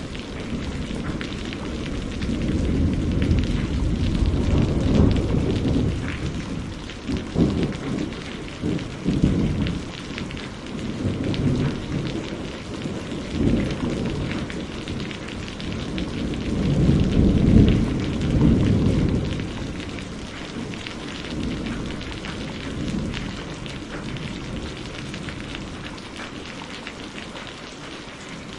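Steady rain falling, with rolling thunder: a long low rumble in the first few seconds and another, the loudest, a little past the middle, both fading away toward the end.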